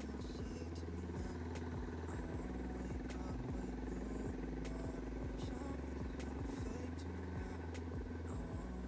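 Doodle Bug minibike's Predator 212 single-cylinder four-stroke engine running at a steady speed, its pitch holding even, with small scattered ticks and rattles over it.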